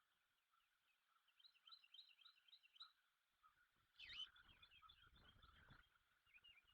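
Faint background birdsong: runs of quick, repeated high chirps, several a second. About four seconds in there is a brief louder rustle, followed by a low rumble for nearly two seconds.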